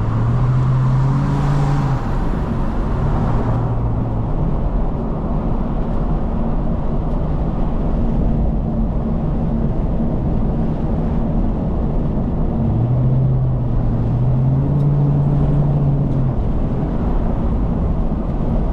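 A car driving: steady engine and road noise, with the engine note holding a steady pitch for a few seconds near the start and again about two-thirds of the way through.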